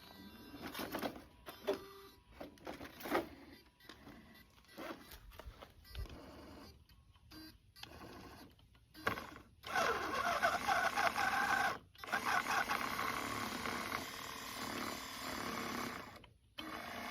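Small electric motor and gears of a 1:28-scale RC truck, whirring in short stop-start bursts at first. From about halfway it runs more steadily, cutting out briefly twice.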